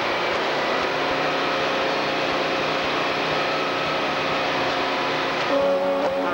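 Show trucks of a convoy rolling by: steady engine and road noise. About five seconds in, a loud pitched tone with several notes stacked together starts.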